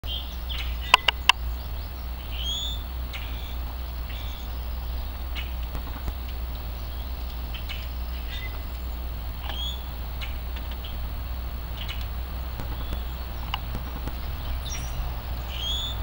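Small birds chirping with short, high calls every second or two over a steady low rumble. About a second in come three sharp knocks, the pileated woodpecker pecking at the suet feeder.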